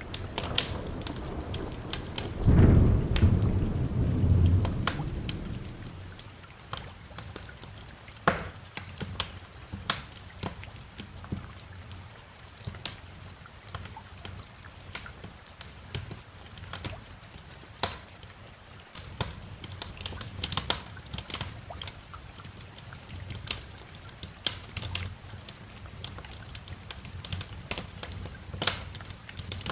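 A roll of thunder rumbles about two seconds in and fades away by about six seconds, over steady rain. Wood fire crackling throughout, with frequent sharp pops and snaps.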